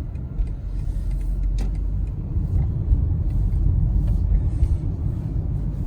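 Low, steady rumble of car road and engine noise heard from inside the cabin while driving, growing a little louder in the first few seconds as the car pulls away.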